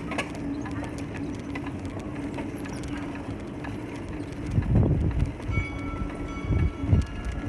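A heavy vehicle passing with a steady low hum, heavy thumps about halfway through and again near the end, and thin high steady tones coming in during the second half.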